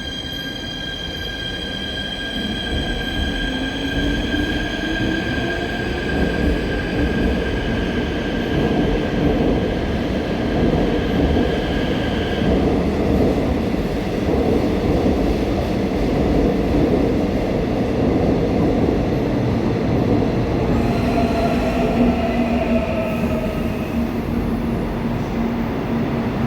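Seoul Subway Line 4 electric train running along the platform: a dense rumble of wheels and motors that grows louder, with a high steady wheel squeal that fades out about halfway and a motor whine rising in pitch as it picks up speed. A new set of steady whining tones comes in near the end.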